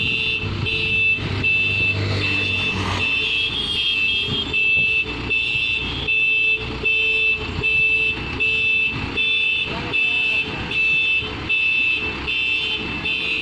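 A truck's warning beeper sounds a high, even beep a bit more than once a second, like a reversing alarm, over the truck's engine running.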